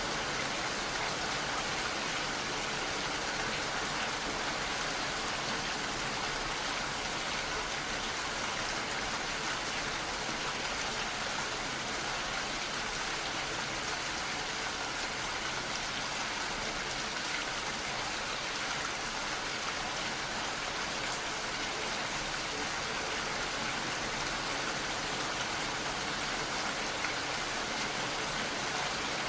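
Steady rain falling, an even hiss of drops with no distinct gusts or breaks.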